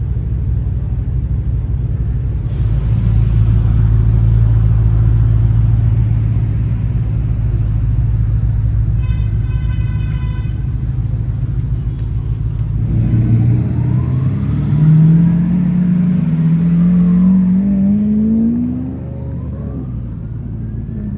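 Lamborghini Countach LPI 800-4's V12 running at a low, steady rumble, then accelerating from about thirteen seconds in, its note climbing steadily for about five seconds before it fades off. A brief high-pitched tone sounds near the middle.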